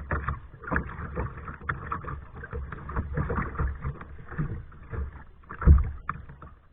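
Kayak paddling: irregular splashes and swishes of paddle blades in the water, with a heavier low thump about five and a half seconds in.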